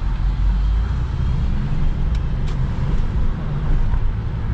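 Car driving, with a steady engine and road rumble heard from inside the car. Two faint clicks come a little after two seconds in.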